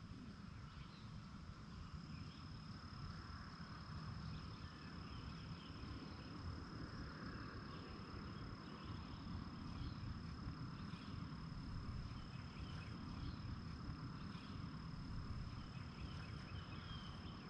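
Insects singing outdoors in one steady, unbroken high note, with faint scattered chirps above it and a low rumble underneath.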